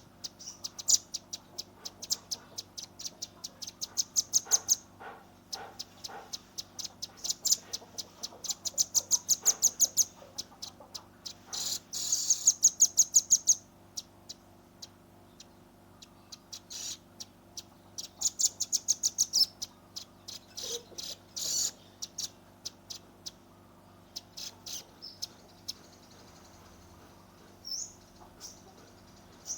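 Juvenile velvet-fronted nuthatch giving its rapid-fire 'shooting' calls: bursts of fast, sharp, high chips run together into trills, with short pauses between bursts and the loudest run about halfway through.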